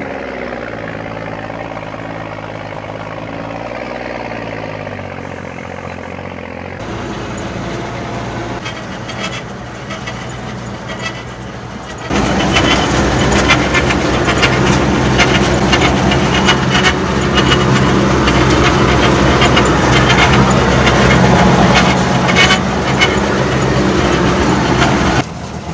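Heavy truck engine running, its pitch rising and falling a little at first; it turns suddenly much louder and rattlier about twelve seconds in, and cuts off abruptly near the end.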